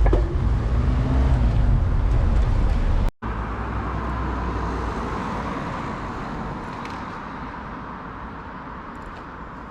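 Road traffic noise heard from a moving bicycle, with a heavy low rumble. It breaks off abruptly about three seconds in, then returns as a steady noise that slowly fades.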